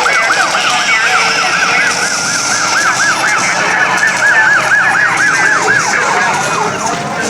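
A siren yelping, its pitch warbling rapidly up and down about four to five times a second, fading out near the end.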